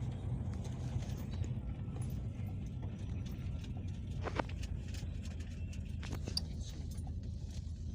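Cabin noise inside a Peugeot Boxer minibus on the move: a steady low rumble of engine and road, with scattered clicks and rattles from the body.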